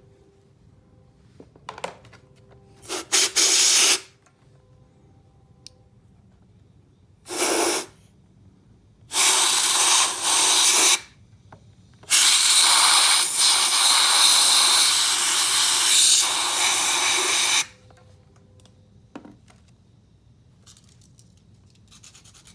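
Cleaning spray hissing onto a Yamaha LB80 Chappy engine in four bursts: a short one about three seconds in, a brief one near seven seconds, a two-second one, then a long burst of about five seconds. Faint small clicks and scrapes fall between the bursts.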